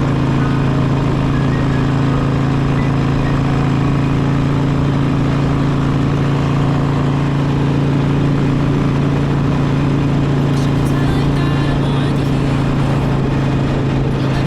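Harley-Davidson Sportster's V-twin engine running at a steady cruising speed, its pitch unchanged throughout, with rushing road and wind noise.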